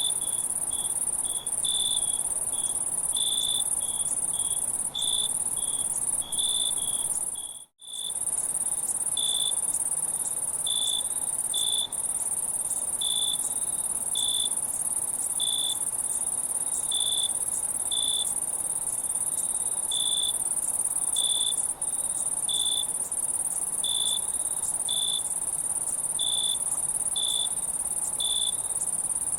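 Crickets chirping: a steady high trill with short lower chirps repeating about once or twice a second, and a brief gap in the sound about eight seconds in.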